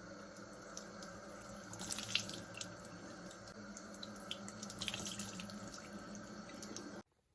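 Water running steadily from a tap into a sink, with a few small clicks and knocks; it cuts off suddenly near the end.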